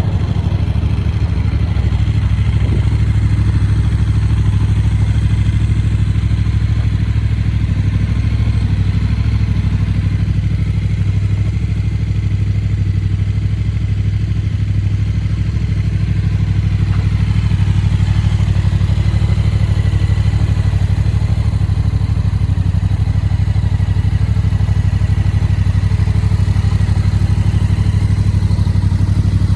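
2022 Yamaha Tracer 7's 689 cc parallel-twin engine idling steadily.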